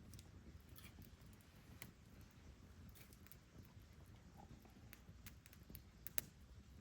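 Faint crackling of a wood fire: a few sharp, scattered pops about a second apart over a low steady background rumble, one louder pop near the end.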